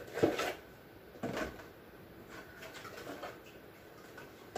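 Items being handled and set down on a refrigerator shelf: two sharp knocks in the first second and a half, then faint scraping and shuffling as things are slid into place.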